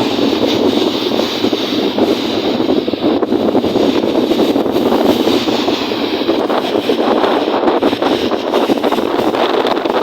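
Strong wind blowing across the microphone: a loud, steady rushing noise, perhaps with lake waves mixed in.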